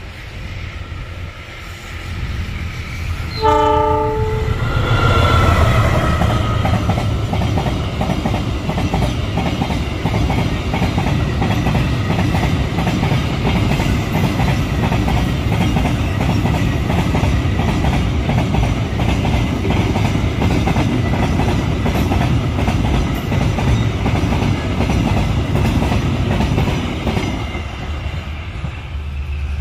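Diesel locomotive horn giving a short blast about three seconds in, then a freight train of flat wagons passing close by, its wheels rumbling and clacking over the rail joints for some twenty seconds before the sound eases off near the end.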